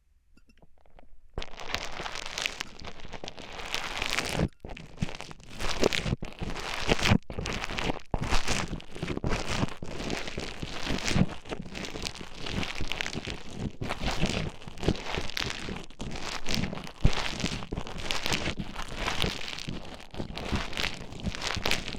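Play Foam modelling beads squished and mixed close to the microphone, a dense crackling and crunching that starts about a second in and goes on with brief short gaps.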